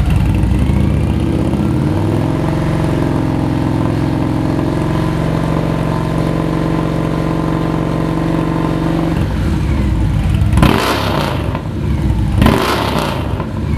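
Victory Cross motorcycle's V-twin running through Big Gonzo aftermarket mufflers: it rises from idle about a second in and is held steady at about 3,000 RPM, drops back about nine seconds in, then is blipped twice, two sharp revs about two seconds apart.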